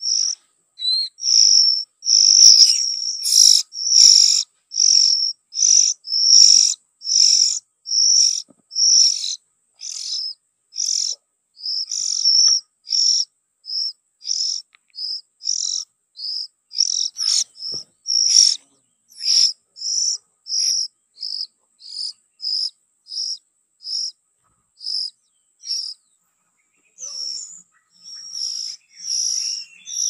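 Bird chirping: short, high, sharp calls repeated about twice a second, a little softer in the second half, with a faint steady high tone behind them.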